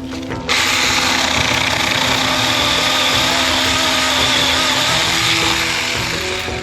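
Battery-powered Saker mini chainsaw running at full speed, its motor and chain giving a steady, high-pitched rattling whine that starts suddenly about half a second in and stops near the end.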